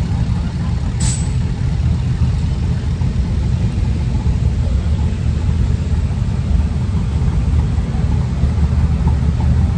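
A vehicle engine idling with a steady, deep rumble. There is one sharp click about a second in.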